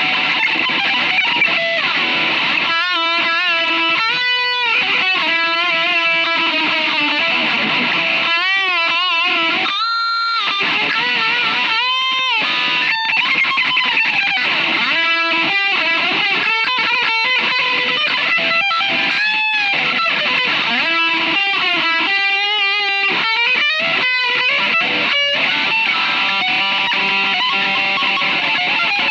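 Rock instrumental with a distorted electric guitar playing a lead melody, its sustained notes bent and shaken with wide vibrato.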